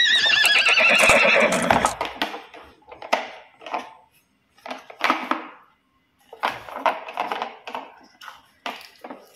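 A horse whinnying: one loud, trembling call whose pitch wavers and slowly sinks over the first two seconds, followed by a string of short, irregular sounds.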